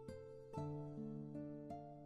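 Gentle background music of plucked string notes, several notes struck in turn and left to ring.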